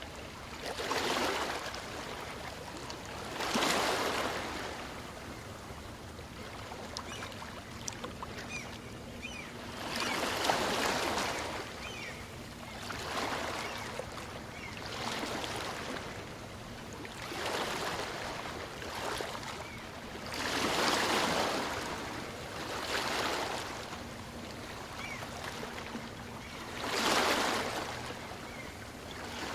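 Small waves on a calm sea breaking and washing up a beach, one surge of surf after another every few seconds, each swelling and fading back.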